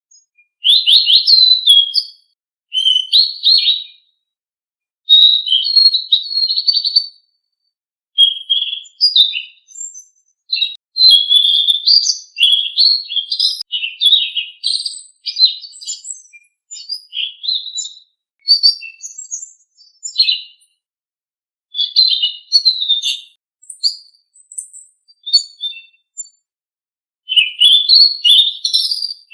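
Selendang biru songbird singing: rapid, varied, high-pitched chirping phrases in bursts of one to three seconds, separated by short pauses.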